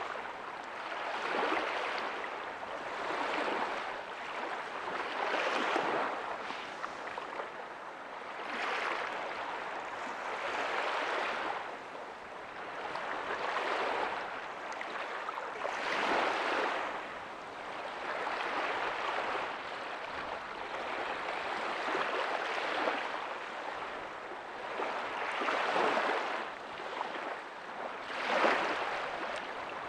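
Small ocean waves breaking softly on a beach, a surf wash that swells and recedes every two to three seconds.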